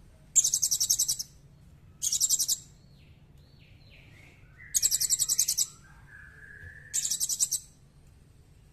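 Recorded small bird calling: four short, very high, rapid trills, each under a second, with softer slurred whistles in between.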